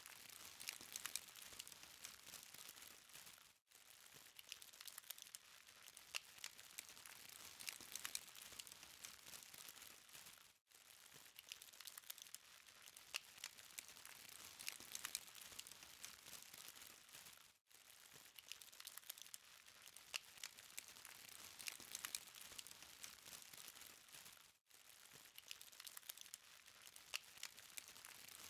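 Burning charcoal crackling softly: a fine steady hiss with many small sharp ticks and pops. The sound cuts out briefly about every seven seconds.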